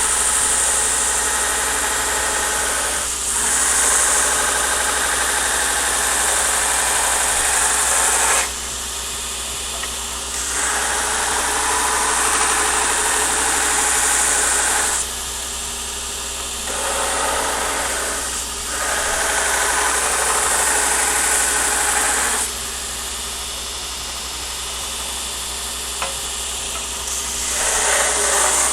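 Belt grinder running, with steel pressed against the belt in several passes of a few seconds each; each pass brings a louder, bright hissing grind, dropping back to the motor's run between passes.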